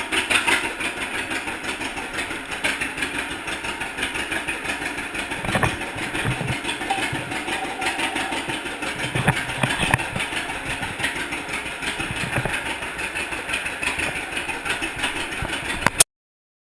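1942 John Deere Unstyled Model A's two-cylinder engine running with an even, pulsing beat, heard through a camera's waterproof case. The sound cuts off suddenly near the end.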